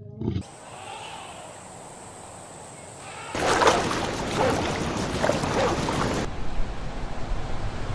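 Ocean waves breaking on a beach, with dogs running and splashing through the shallow surf. The sound grows louder and rougher about three seconds in.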